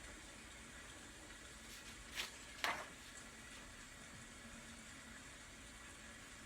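Steady soft rain noise, with two brief taps a little over two seconds in, the second louder.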